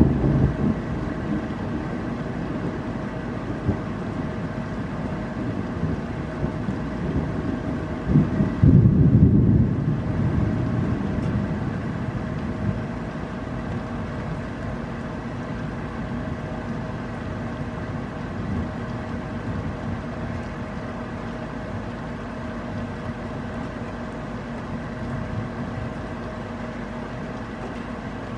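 Thunderstorm ambience: steady rain noise with low rumbling, loudest about eight to ten seconds in, then easing, under a faint steady hum.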